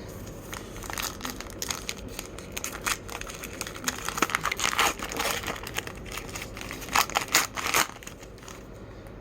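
A trading-card pack wrapper being crinkled and torn open by hand: a run of sharp crackles, densest and loudest about halfway through and again near the end.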